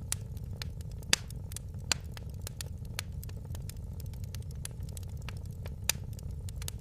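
Wood fire in a fireplace crackling: irregular sharp pops and snaps over a steady low rumble of the flames. Louder pops come about a second in, near two seconds and near six seconds.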